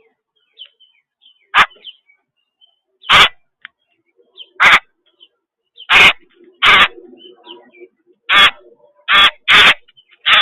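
A bird giving about eight loud, harsh calls, each short and rasping and unevenly spaced, some in quick pairs near the end. Faint high chirps from small birds come between them.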